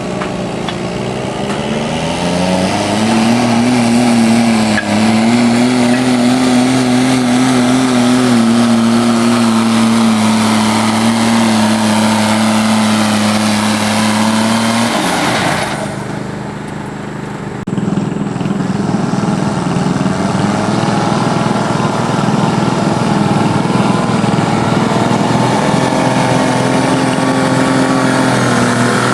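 Diesel engine of a turbocharged pulling garden tractor revs up and is held at steady high revs under load for about twelve seconds. It then drops off sharply, comes back up a couple of seconds later and holds steady again. The turbo is making no boost.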